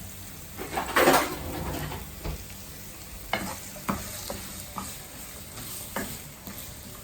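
Onions frying in hot oil in a pan, sizzling steadily while being stirred. There is a louder swell of stirring about a second in, and the spoon taps against the pan several times. The onions are being sautéed until translucent.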